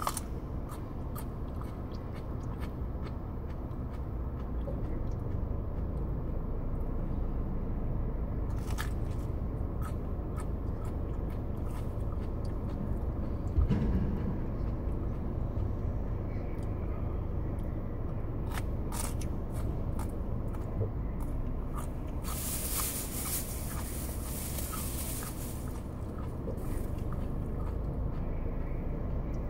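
A person biting and chewing raw habanero peppers, with scattered small crunches and mouth clicks over a steady low rumble. A hiss lasts about three seconds, three-quarters of the way through.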